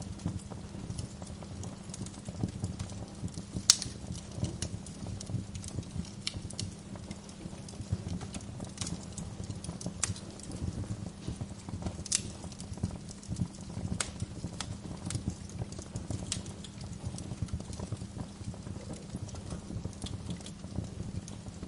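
Wood fire in a fireplace crackling, with irregular sharp pops over a steady low rumble; one pop about four seconds in is louder than the rest.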